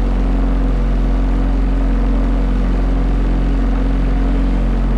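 Motorboat engine idling steadily, a low, even hum.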